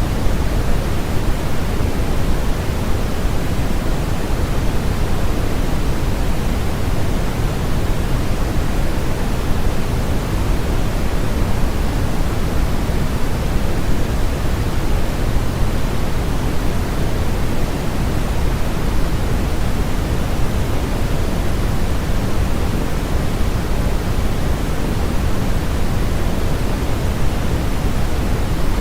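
Steady, unchanging synthesized noise of the kind played as white noise for sleep: an even rushing hiss, heavier in the lows than in the highs.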